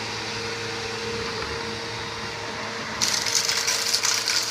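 Hoover Elite Rewind upright vacuum cleaner running with a steady motor hum; about three seconds in it turns louder, with a rattling hiss of debris being sucked up off the deck.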